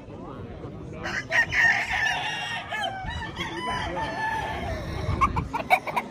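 Gamecocks crowing: several overlapping rooster crows begin about a second in and carry on for a few seconds, followed by a few sharp clicks near the end.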